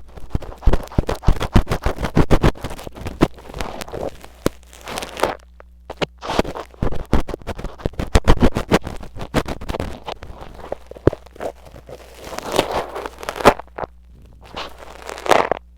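An ear pick scratching and scraping hard against a mini microphone for ear-cleaning ASMR, in quick crackly strokes with short pauses. Near the end it changes to digging through sticky fake earwax, giving a wetter crackle. A faint steady hum runs underneath.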